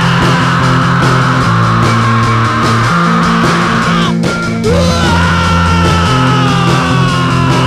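Rock music with no singing: guitar lines glide slowly downward over held bass notes. About four seconds in there is a brief break, then a quick upward slide.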